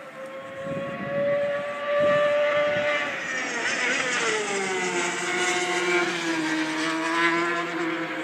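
BMW S1000RR superbike's inline-four engine running at high revs. Its pitch holds steady for about three seconds, then falls over the next three and settles lower.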